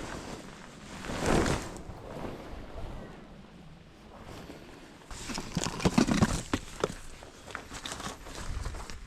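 Camping gear being handled during tent pitching: rustling of fabric or bags and short clicks and knocks. There is a brief rushing swell about a second in, then a dense run of clicks and rustles from about five to seven seconds in.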